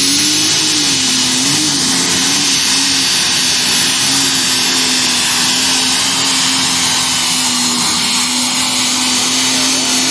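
Pulling tractor's engine running flat out as it drags the weight-transfer sled down the track. The engine note wavers up and down for the first few seconds, then holds steady.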